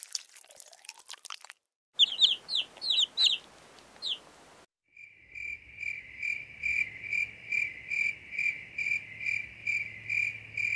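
Soft crunching of caterpillars chewing a leaf for about the first second and a half. After a short gap comes a quick run of about seven high, falling chirps, the loudest sound here. From about five seconds in, an insect chirps steadily in a high pulsed trill, about two and a half beats a second.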